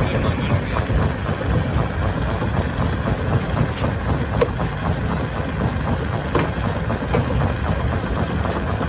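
Stone crusher machine running steadily with a heavy, low engine rumble, broken by a couple of sharp knocks about four and six seconds in.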